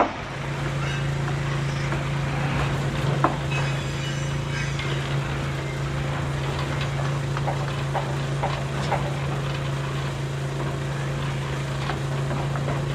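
A small motor running steadily with an even, constant hum, with scattered small clicks and rattles over it.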